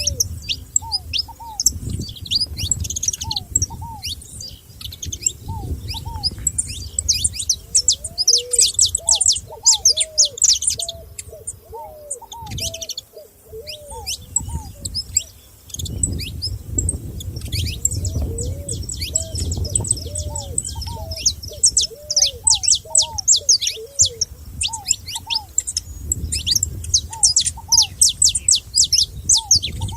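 Several wild songbirds singing together: dense runs of high, rapid chirps and trills, with a lower short arched note repeated over and over. A low rumble runs underneath, weaker for a moment about twelve to fifteen seconds in.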